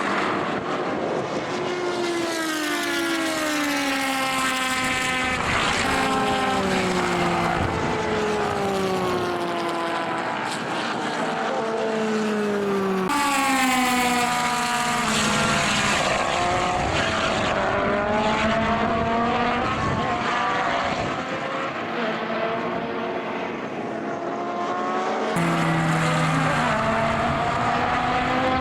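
Racing car engines at full throttle as cars pass one after another, each rising in pitch as it revs and falling away as it goes by. The sound changes abruptly about thirteen and twenty-five seconds in.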